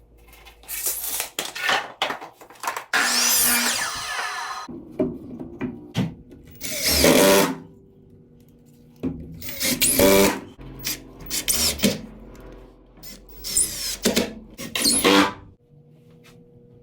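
Power drill running in several short bursts, its motor whine rising and falling with each run, between bits of handling noise.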